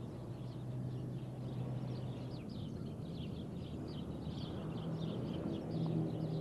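Birds chirping in short, quick, repeated calls, a few a second, over a low steady hum.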